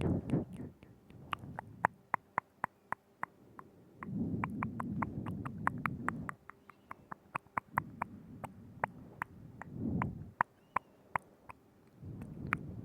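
Close-miked ASMR mouth sounds: a run of sharp, wet tongue and lip clicks, several a second, with stretches of low, muffled noise in between.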